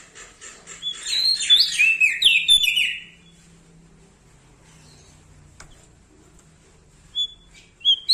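A prenjak daun, a small songbird, singing. A run of quick soft chips, then about a second in a loud two-second phrase of clear whistled notes stepping down from high to lower pitch. After a quiet spell, two short call notes near the end lead back into song.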